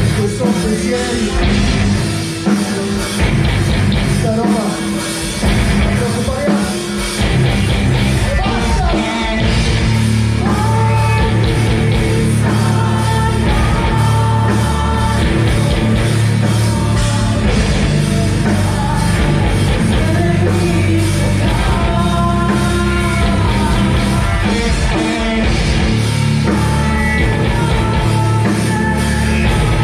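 A rock band playing live at full volume, with a lead voice singing over dense guitars, bass and drums; the singing stands out most from about ten seconds in.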